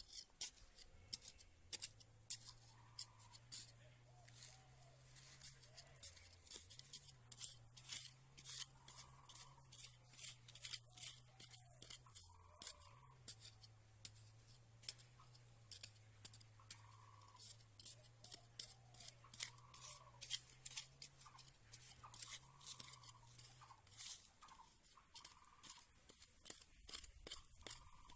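Scissors snipping over and over, several crisp cuts a second, under a faint low steady hum that stops a few seconds before the end.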